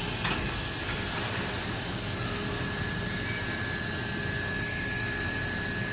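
Machinery running steadily: an even mechanical hum and hiss with a constant high whine over it, and a single click just after the start.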